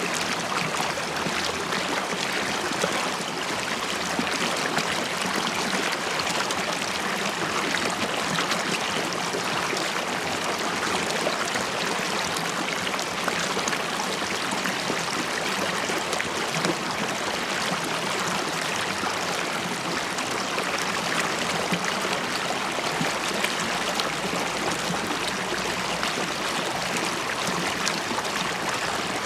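A river stream running and bubbling over rocks, a steady dense babble of water with constant small splashes and gurgles.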